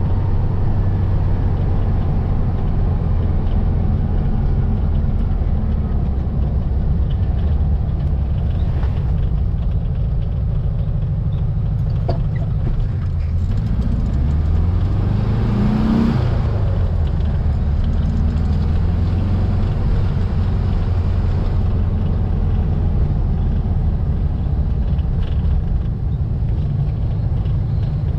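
A 1700cc air-cooled Volkswagen flat-four engine in a Baja Bug, heard while driving, with a steady low drone. About halfway through, the engine note rises and then falls back with a brief louder swell.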